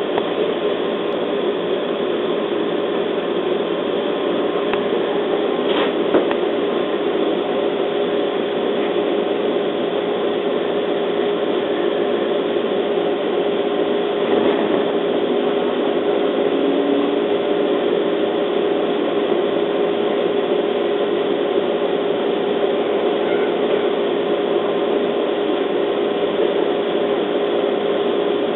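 Interior running sound of a JR East 211 series electric train: a steady electrical hum with the rumble of the car as it pulls away from a station platform and picks up speed. A couple of light knocks come about six seconds in.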